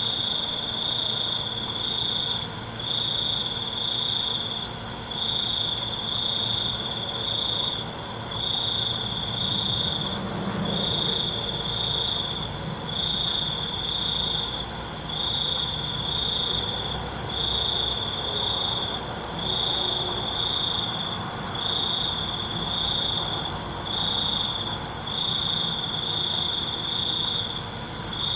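Crickets chirping at night: one loud, high trill repeated in stretches of about a second with brief breaks, over and over, with a fainter, faster-pulsing insect call above it.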